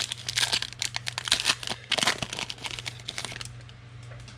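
Plastic wrapper of a trading-card pack being torn open and crinkled by hand, a dense run of crackling that dies down after about three and a half seconds. A steady low hum runs underneath.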